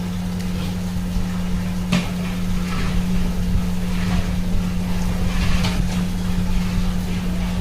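A steady mechanical hum over a low rumble, with occasional short clicks and scrapes on top.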